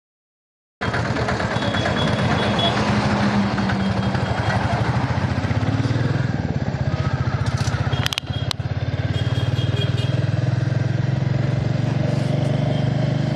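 Motorcycle engine running steadily during a ride, starting abruptly about a second in, with a rapid low pulsing. Two sharp clicks come about eight seconds in.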